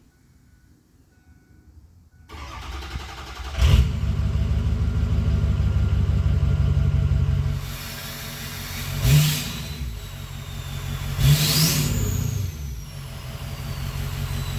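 Straight-piped 2005 Ford F-350 6.0 L Powerstroke V8 turbodiesel, muffler and catalytic converter deleted, starting about two seconds in after a few faint beeps. It flares once as it catches, settles into a steady idle, then is blipped twice, with a turbo whistle winding down after the revs.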